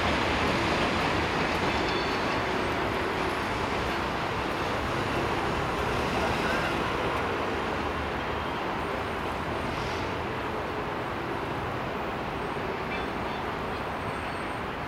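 Freight train wagons rolling along the track, a steady rumble of wheels on rail that slowly fades as the end of the train moves away.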